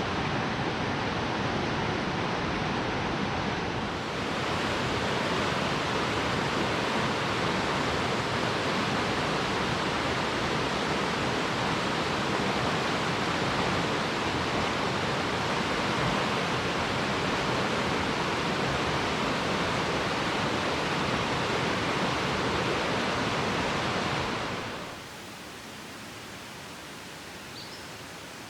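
Steady rush of water from a fast mountain creek and its cascades. Near the end it drops suddenly to a quieter, thinner rush.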